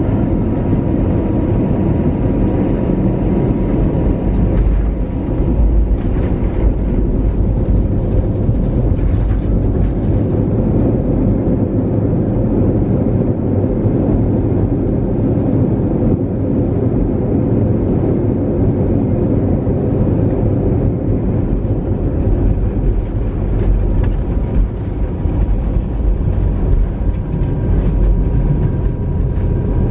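Cabin noise aboard an Airbus A320-200: a loud, steady low rumble of engines and airflow with a faint steady whine.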